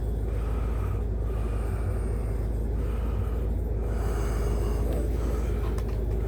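Tow truck's engine idling: a steady low rumble with an even hum over it.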